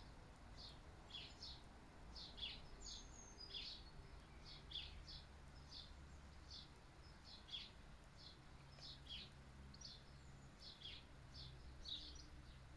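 Faint chirping of small birds: short, high, falling chirps, two or three a second, going on steadily over a low rumble.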